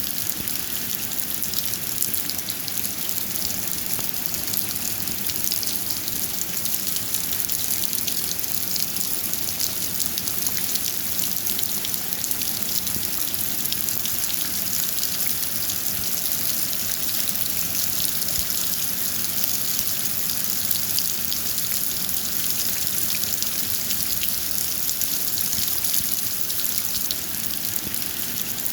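Steady rain falling: a constant hiss of rainfall with many fine, close-packed drop ticks, even throughout.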